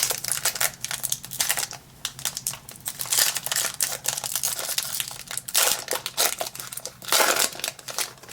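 Foil Pokémon booster pack wrapper crinkling and tearing in irregular crackles as a very tight pack is worked open by hand, with louder rips about three seconds in, past the middle and near the end.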